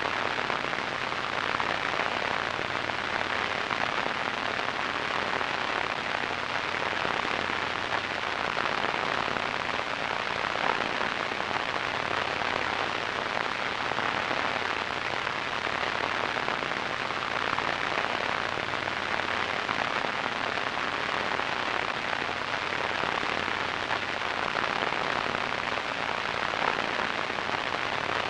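Radio static: a steady, even crackling hiss, strongest in the middle range and dull in the highs, with no tone or voice in it.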